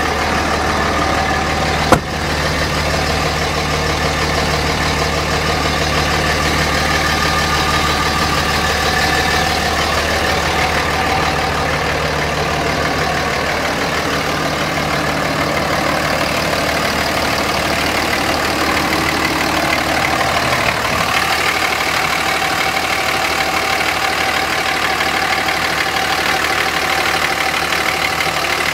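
Dodge Ram's 5.9 Cummins inline-six turbo diesel idling steadily. There is one sharp click about two seconds in.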